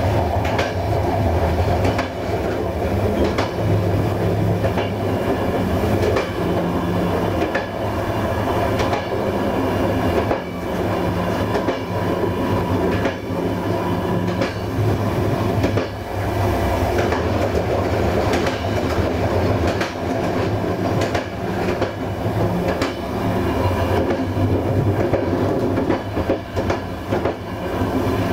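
Train running along the track: a steady rumble and hum, with wheels clicking over rail joints throughout.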